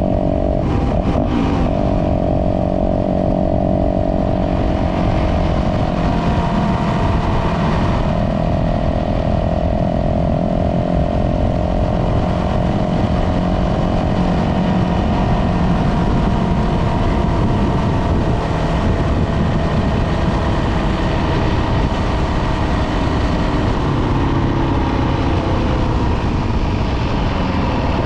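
Dirt bike engine running steadily on a trail ride, its pitch holding with small dips and rises, over a constant low wind rumble. A few sharp clicks come about a second in.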